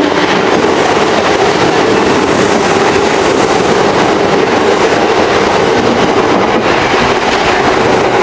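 Kintetsu 3200 series electric train running along the track: a loud, steady noise of wheels on the rails.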